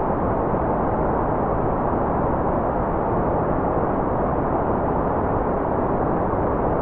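Generated white noise playing steadily without change, a smooth, muffled hiss with most of its weight in the low and middle range and almost nothing in the highs.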